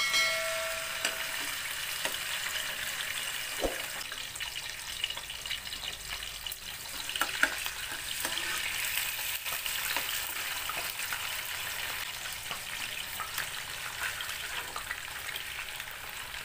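Pork chops frying in hot cooking oil in a pan: a steady sizzle and spatter that starts abruptly as the first chop goes in, with a few sharp knocks as more chops are laid in.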